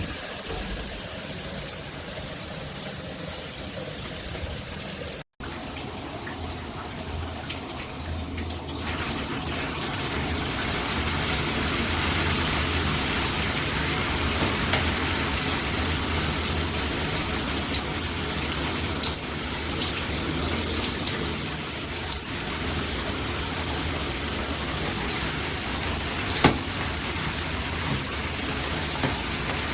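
Shower water spraying steadily from a shower head. After a brief cut about five seconds in, the spray grows louder and more hissing from about nine seconds in, with a few faint clicks.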